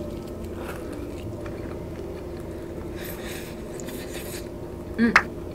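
A person chewing a mouthful of lobster pizza, with a stretch of crunching about three seconds in and a short vocal murmur near the end, over a steady low background hum.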